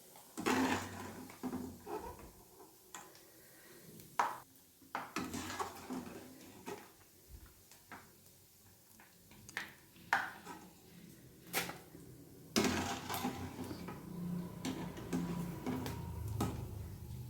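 A metal spoon scraping and clinking against a pan of hot oil as fried dry coconut is scooped out: irregular knocks and scrapes, coming thicker in the last few seconds.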